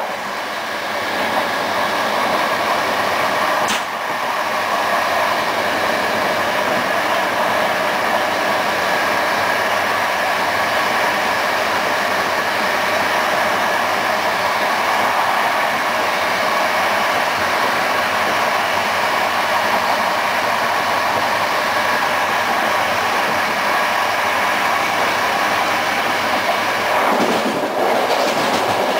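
Passenger train running along the line, heard from on board: a steady rumble of wheels on rails, with one short sharp click about four seconds in.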